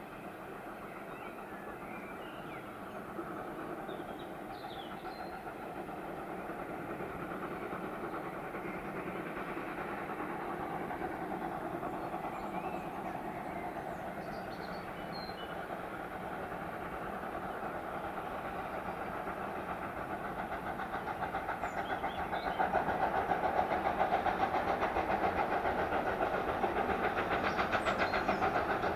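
Steam-hauled train approaching, running with a fast, even rhythm that grows steadily louder and jumps up near the end as it draws close.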